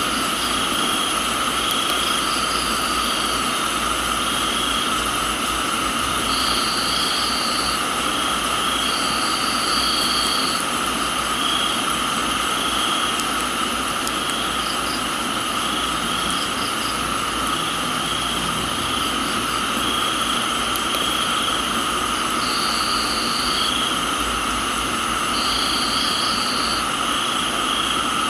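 Crickets trilling in a steady chorus over an even hiss of rain. A higher insect trill starts and stops every few seconds.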